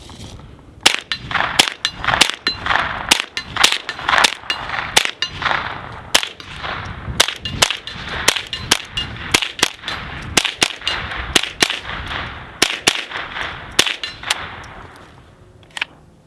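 Integrally suppressed Ruger 10/22 firing .22 LR in a steady string of quiet, snappy shots, roughly two a second, with the steel targets ringing as they are hit. The shooting stops about two seconds before the end.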